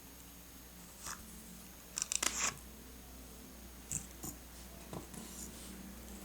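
Paper and stationery being handled on a desk: scattered short rustles and light taps, with a brief cluster about two seconds in, over a faint steady hum.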